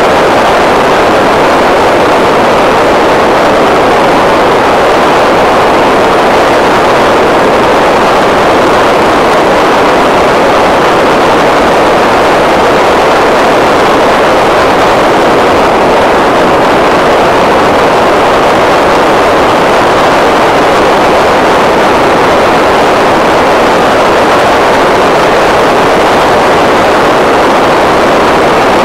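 A loud, steady rush of wind over a camera microphone while riding a bike, with no breaks or changes.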